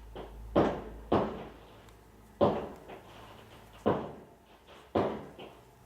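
Neighbours' fireworks going off, heard from indoors as five muffled bangs at uneven intervals, each dying away quickly.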